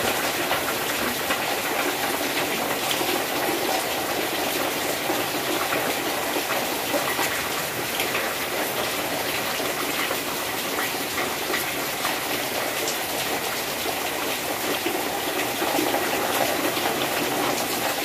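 Heavy rain falling steadily, with runoff streaming and dripping off the edge of an awning in a dense patter of drops.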